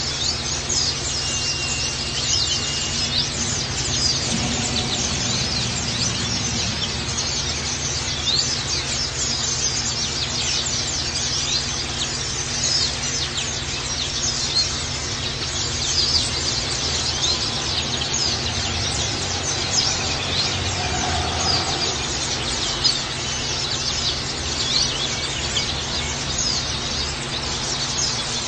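White-eyes (pleci) chirping rapidly and without pause, a dense stream of short, high-pitched calls over a steady background hiss.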